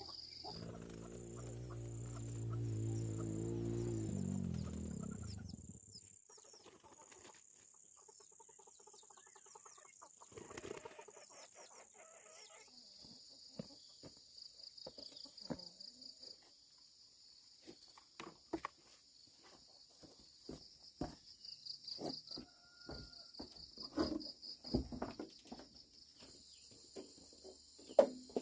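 Outdoor rural ambience: insects chirring steadily at a high pitch, with scattered short clicks and knocks. For the first few seconds a low, drawn-out pitched sound is the loudest thing, then it fades out.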